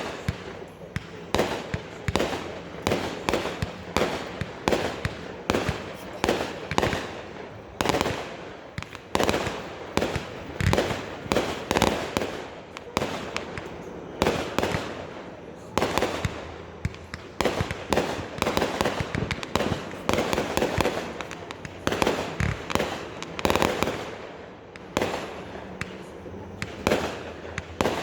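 Fireworks going off in a continuous barrage: sharp bangs, a few every second, each trailing off in a short echo.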